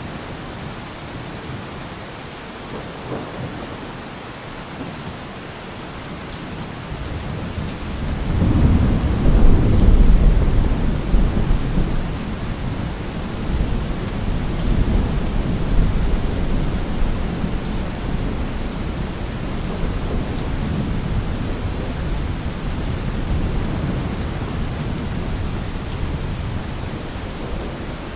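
Steady heavy rain with a long roll of thunder that builds about eight seconds in, peaks a couple of seconds later, then rumbles on and slowly fades under the rain.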